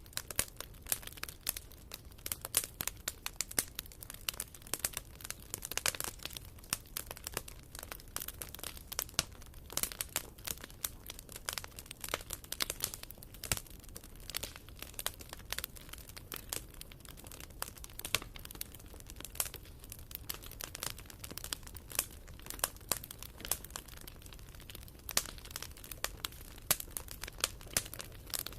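Wood fire burning in a fireplace: logs crackling and popping in dense, irregular snaps.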